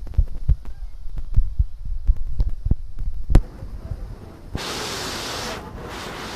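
Repeated low thumps and knocks of a phone being handled, then a steady rushing hiss that starts suddenly about four and a half seconds in.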